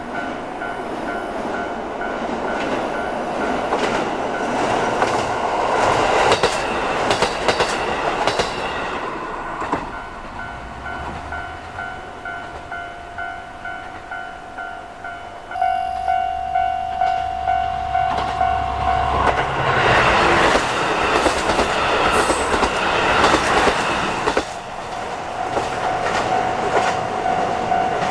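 Diesel railcar train running past, its wheels clacking over rail joints in an even rhythm through much of the time, with a steady held tone sounding around the middle and again near the end.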